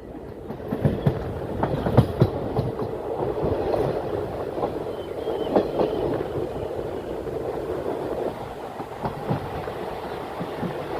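Moving passenger train: a steady rumble of wheels on rails, with frequent irregular knocks and clicks over the track.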